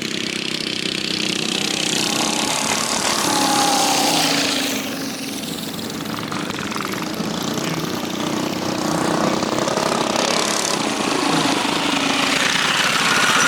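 Several mini bikes' small single-cylinder engines racing around a flat track, their pitch rising and falling as they rev and pass.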